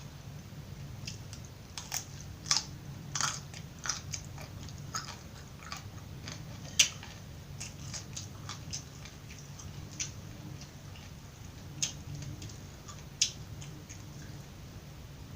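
Close-miked chewing of raw vegetables: irregular crisp crunches and crackles as the pieces break between the teeth, a few much louder snaps among softer ones.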